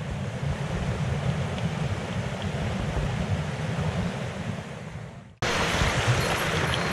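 Mountain stream water rushing over rocks, a steady noise. It fades out and cuts off about five seconds in, then starts again at once.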